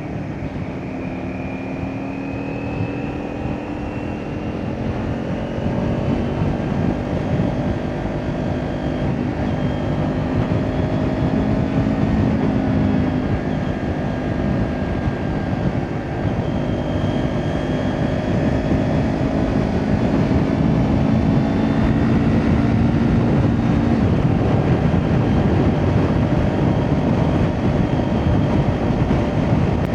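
Kawasaki Ninja 400 parallel-twin with an Akrapovic exhaust running at a steady cruise, its note creeping slowly higher as the bike gathers speed. About 24 seconds in, the engine tone drops away under a louder, even rushing noise.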